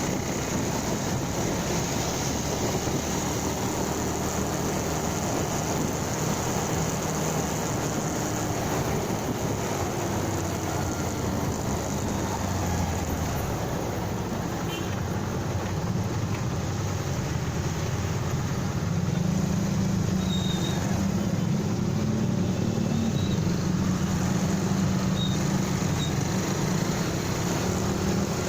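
Motorcycle engine running while riding, under steady road and wind noise; the engine gets louder about two-thirds of the way through.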